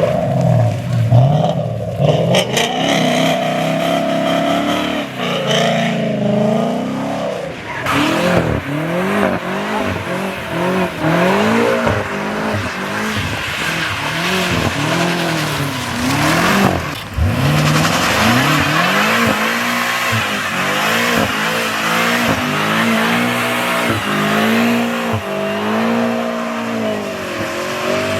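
A car engine revving hard, its pitch rising and falling over and over, with tires squealing as the car is spun.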